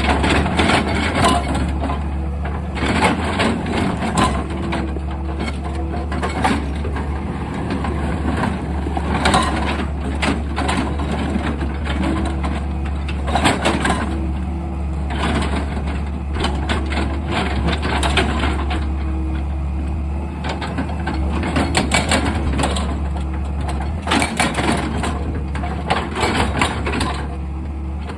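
Excavator at work: its engine runs steadily with a constant low hum, while frequent irregular knocks and scrapes come from the digging in rock and earth.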